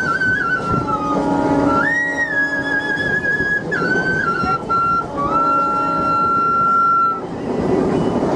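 Bansi (bamboo flute) played by blowing through the nose: a slow melody of held and stepping notes, ending on one long held note that stops about seven seconds in, over the rumble of a moving local train.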